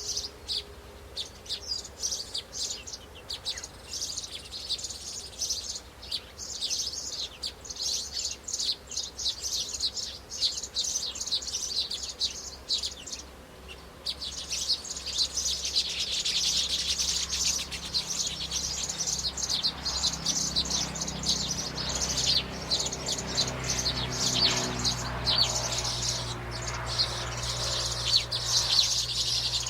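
Birds chirping rapidly and continuously in high-pitched twitters, pausing briefly about halfway through. A low steady hum comes in about two-thirds of the way through.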